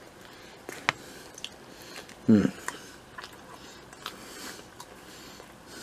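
A man chewing a bite of sausage pizza: scattered wet mouth clicks and smacks, with a short vocal sound a little over two seconds in.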